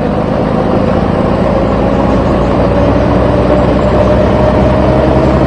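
Truck engine running steadily, its pitch creeping slightly higher.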